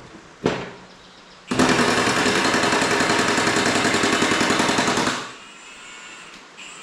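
A loud, rapid mechanical hammering that starts abruptly about a second and a half in, runs for about three and a half seconds and stops, after a single sharp knock near the start.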